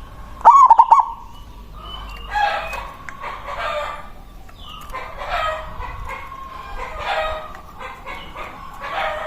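A zebra dove (perkutut) gives its loud cooing call once, brief and wavering, about half a second in. Repeated softer bird calls follow, about every second and a half.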